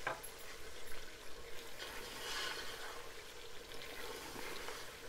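Mutton korma frying in oil in an aluminium pot: a soft sizzle, with a wooden spatula stirring and scraping the pot in small clicks. This is the bhunai stage, the cooked meat being fried down with its masala and onions.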